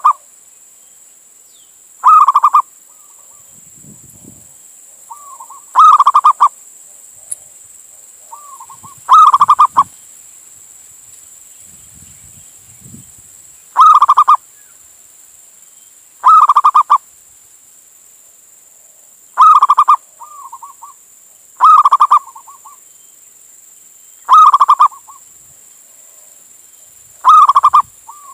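A male zebra dove (perkutut) cooing. It gives a short trilled call about every two to three seconds, nine calls in all.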